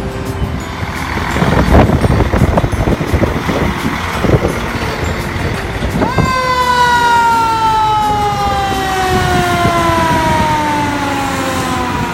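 Heavy truck engine rumbling, then about halfway in a fire truck siren gives one quick rise and winds slowly down in pitch.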